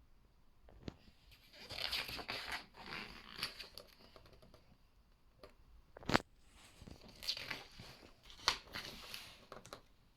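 Book pages being turned and handled: paper swishing and rustling in two spells, with a sharp tap a little past halfway.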